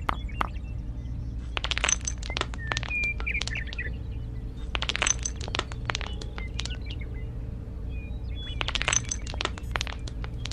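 Small pebbles clacking as they are set down on a brick base and against each other, in three short bursts of clicks, over a steady low hum with a few short chirps.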